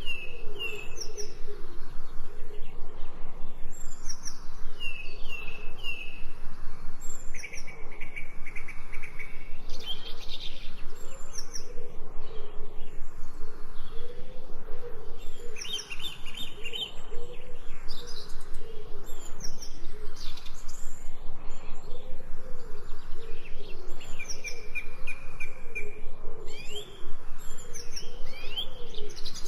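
Several birds chirping and singing, with short whistled calls and a few held trills overlapping one another.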